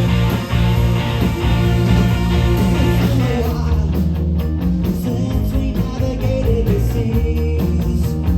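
Live rock band playing loud, with sustained guitar chords; from about three and a half seconds in, drums hit a steady beat.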